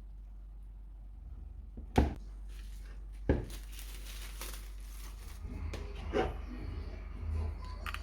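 Household handling sounds: two sharp knocks about two and three seconds in, then rustling and a softer knock.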